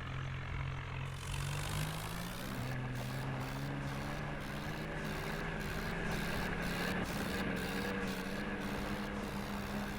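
New Holland tractor's diesel engine revving up over about a second, then running steadily at the higher speed, as when pulling a loaded trolley.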